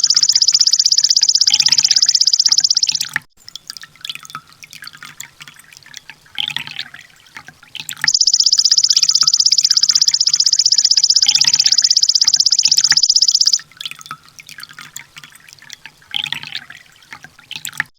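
Recorded sunbird (konin) song used as a tutor track: long, very rapid, high-pitched trills of about three and five seconds, separated by softer scattered chirps and clicks.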